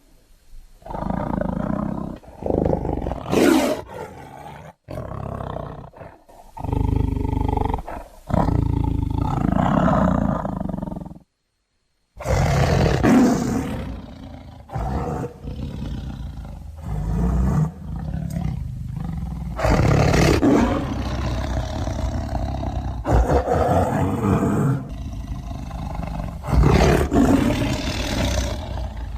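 Sound effects of a giant snow-leopard monster roaring and snarling in big-cat fashion: a long string of roars, broken by a few short silences in the first twelve seconds, then running almost without a break.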